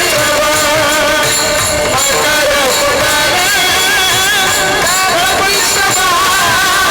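A woman singing a Marathi devotional kirtan song over instrumental accompaniment, in long held notes that waver and bend.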